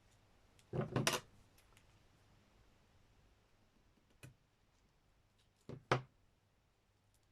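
Craft materials being handled and set down on a tabletop: a brief cluster of knocks and rustles about a second in, a single click past four seconds, and a double knock near six seconds.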